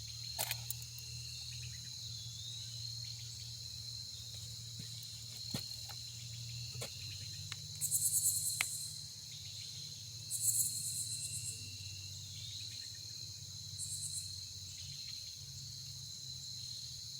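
Evening chorus of crickets trilling steadily, with three louder, rapidly pulsing high-pitched insect calls in the second half. A low steady hum runs underneath.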